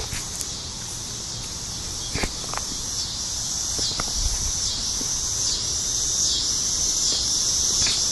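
Evening insect chorus: a high, steady chirring that swells and fades in even pulses a little over once a second, growing louder throughout. A few faint knocks come through underneath.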